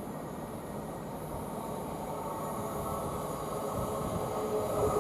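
Thameslink Class 700 electric multiple unit pulling into the station, its running noise growing steadily louder. A steady whine sets in about halfway through.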